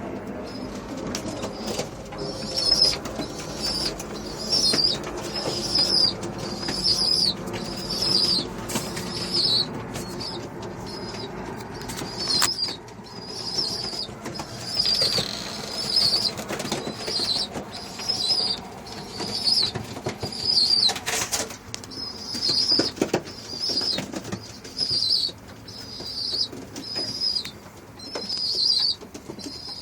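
Racing pigeons in their loft: wings fluttering, and a short high-pitched call repeated about once a second, with low cooing in the first half.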